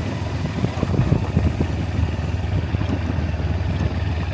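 Motorbike engine running steadily while riding, with some clatter in the first couple of seconds.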